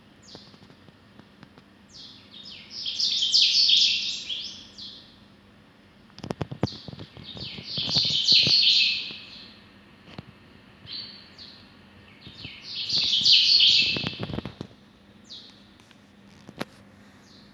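Small birds chirping in three loud bouts of rapid, high chirps, each lasting about two seconds, with a few soft low knocks around the middle and near the end.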